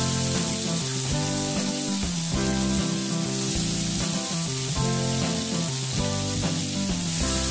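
Ridge gourd and potato pieces frying in hot oil in a kadai, a steady sizzle, under background music.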